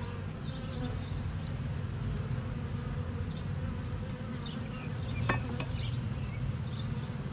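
Honeybees of an opened hive buzzing steadily, with a single sharp click about five seconds in.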